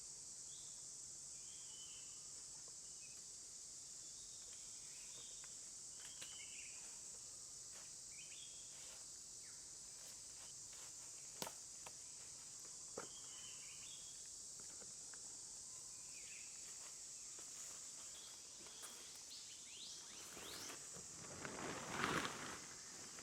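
Faint forest ambience: a steady high-pitched insect chorus with scattered short chirps. Two sharp clicks come near the middle, and a burst of rustling, the loudest sound, comes near the end.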